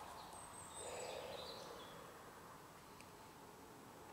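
Faint woodland ambience, with a bird giving a thin high note and a few short chirps during the first second or two.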